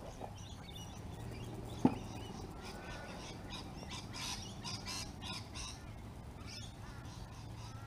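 Birds chirping and calling, with many short high calls throughout. A single sharp knock about two seconds in stands out above them.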